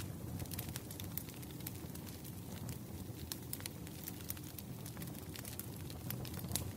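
Wood fire burning: a log fire crackling with frequent irregular sharp pops over a low steady rumble, with a brighter pop near the end.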